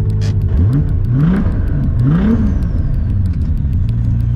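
Single-turbo 2JZ-GTE straight-six of a MkIV Toyota Supra running, blipped three times with quick rising revs in the first two and a half seconds, then back to a steady idle. The owner suspects the engine has developed a rod knock.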